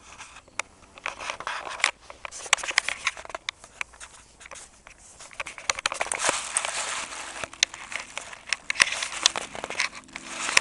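Irregular rustling and crackling, full of sharp clicks, heaviest in two stretches: about the first three seconds, and from about six seconds in until near the end.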